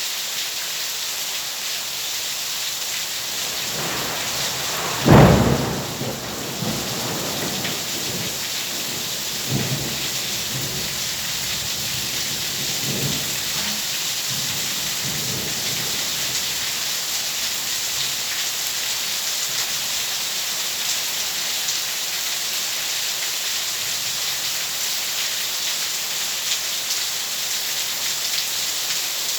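Steady heavy rain with a sharp thunderclap about five seconds in, followed by a few fainter rolling rumbles over the next ten seconds.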